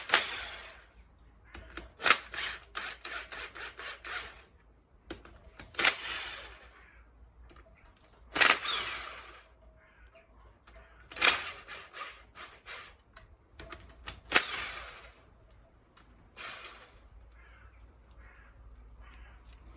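Metal hand tool clicking and clinking on bolts in short bursts every two to three seconds, several bursts a sharp click followed by a quick run of lighter ticks, as bolts are undone.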